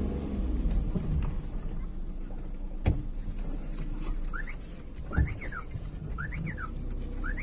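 Car engine running with a low steady rumble, with a sharp knock about three seconds in. From about halfway in, a bird calls repeatedly with short rising-and-falling chirps about once a second.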